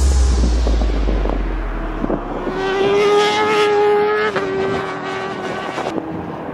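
Racing motorcycle engine held at high revs on track, its pitch dipping a little partway through as the gears change, while a bass-heavy music bed fades out at the start.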